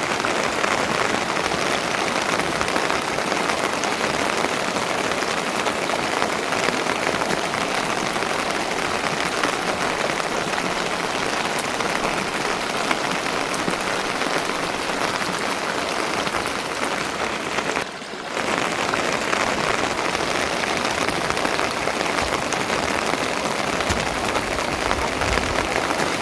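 Steady rain falling, a dense even hiss of drops on surfaces, briefly dropping away about two-thirds of the way through before returning.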